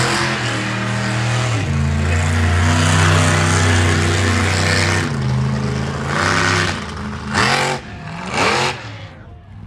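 Monster truck engine running hard at high revs. In the second half it gives a few sharp revs that rise and fall, then drops away near the end.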